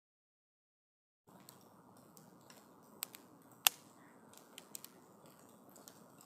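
Silence, then a faint outdoor background with a few sharp snaps or clicks, the loudest about three and a half seconds in.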